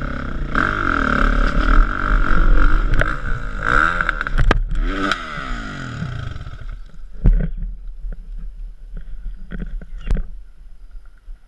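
Kawasaki KX450F single-cylinder four-stroke dirt bike engine revving hard up and down for about six seconds, then falling back to quieter running, with two sharp knocks in the quieter second half.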